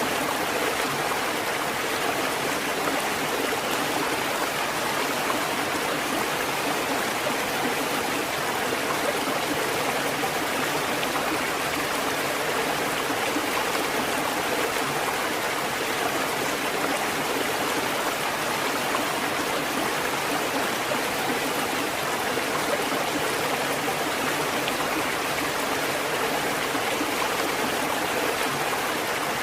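Water fountain running, a steady splashing and trickling of water with no change or breaks.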